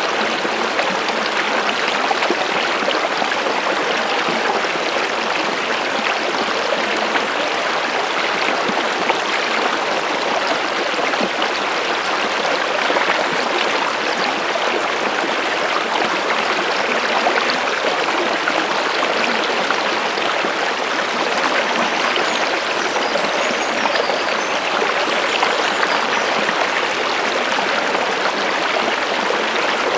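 A stream of running water flowing steadily, an even splashing wash with no breaks.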